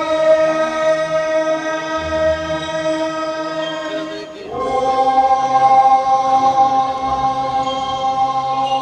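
Chinese imperial sacrificial ritual music of the Heaven-worship rite: voices singing in unison on long held notes. One note is held for about four and a half seconds, then the singing steps up to a higher note and holds it.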